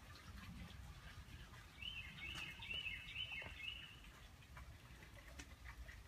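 A songbird singing a quick phrase of short, repeated, high notes for about two seconds, starting a couple of seconds in, with scattered faint chirps around it.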